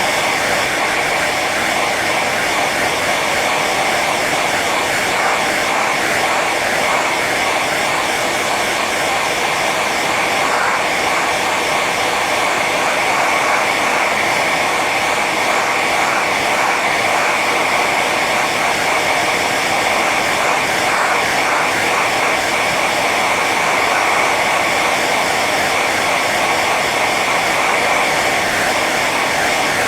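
Hair dryer running steadily on its high setting: a constant blowing rush with a thin whine from the fan motor.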